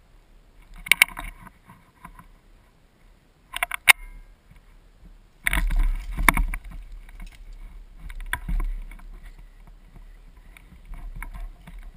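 Handling and movement noise on a rifle-mounted camera: rustling and scraping, with a handful of sharp knocks and clicks at irregular intervals, the loudest near four seconds in and again a little after six seconds in.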